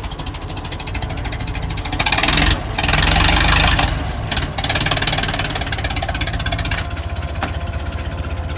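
Car engine idling steadily, with a louder rushing noise over it from about two to four seconds in.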